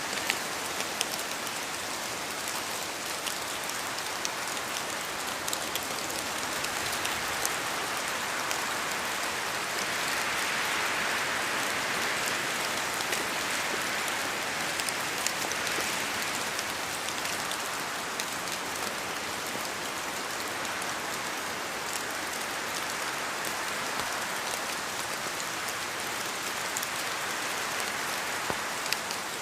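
Steady rain hissing, with scattered sharp ticks of single drops. The hiss swells slightly for a few seconds around the middle.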